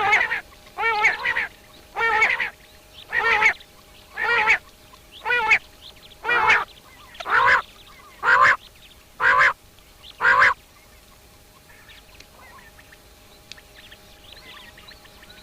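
A bird calling over and over, a wavering nasal call about once a second, eleven times, stopping about ten and a half seconds in.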